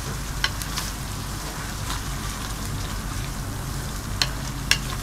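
Onions and garlic-ginger paste frying in oil in a metal pot, a steady sizzle while they are stirred with a wooden spoon, with a few short clicks of the spoon against the pot.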